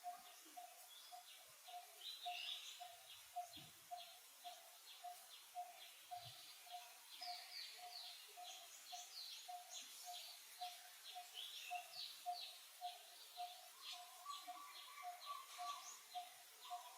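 Faint wild birdsong: a single mid-pitched note repeated evenly a little over twice a second, with many short high chirps from other birds over it.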